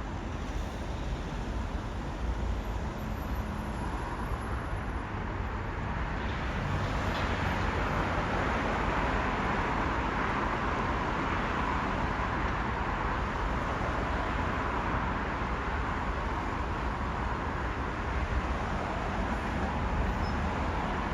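A train rolling along the platform, its steady wheel and running noise swelling about six seconds in and staying loud.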